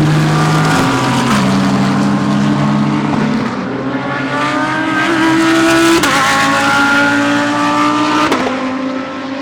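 GT3 race cars running hard at speed, more than one engine heard at once. The engine notes climb and drop back at gear changes several times, and the sound fades a little near the end.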